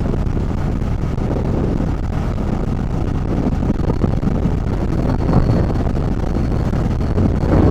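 Motorcycle cruising at a steady speed of about 50 km/h: a low, even engine and road rumble with wind rushing over the camera's microphone.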